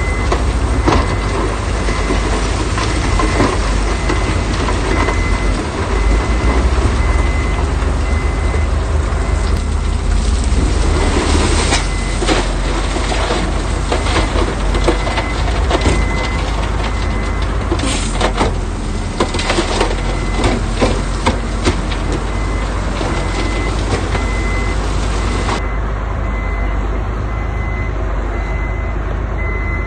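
Heavy diesel construction machinery running steadily with a reversing alarm beeping over it. In the middle stretch come many sharp clanks and rattles, typical of stone and steel knocking.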